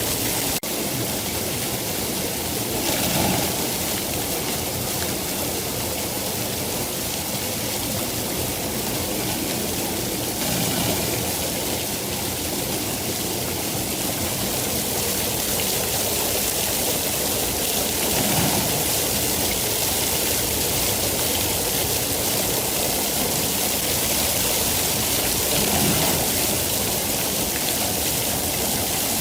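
Steady heavy rain, an even hiss of downpour that swells slightly every several seconds.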